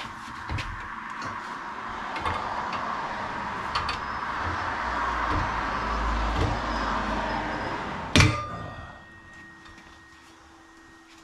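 Tire work on a motorcycle tire machine: a rushing noise that builds and then fades, and one sharp, loud metal clank about eight seconds in. Afterwards only a faint steady hum remains.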